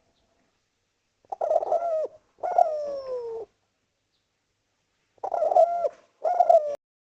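Spotted dove (derkuku, tekukur) cooing: two bursts of call, each of two notes, about four seconds apart, the notes sliding down in pitch at their ends.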